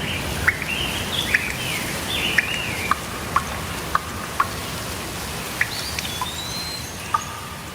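Steady rainfall with songbirds singing over it: a run of warbling chirps in the first few seconds and another short phrase a little after the middle, with scattered short ticks in between.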